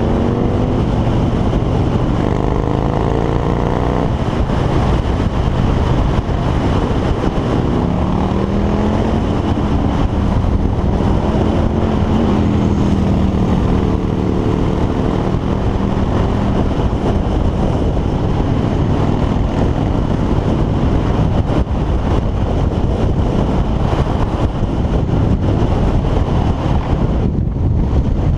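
Harley-Davidson V-twin engine running under way with steady road and wind noise; the engine pitch rises and falls a few times as the speed changes.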